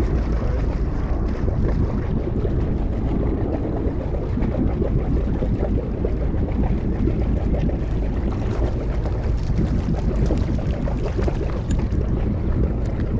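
Steady wind rumble on the microphone over open water. Near the end there is light splashing as a blackfish is lifted out of the water on the line.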